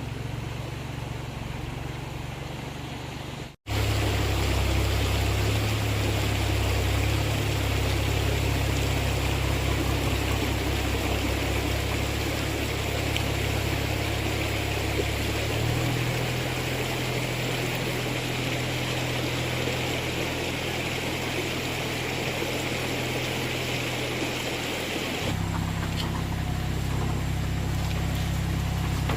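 A machine running steadily, a low hum with a hiss over it, that changes abruptly a few times as if cut between shots.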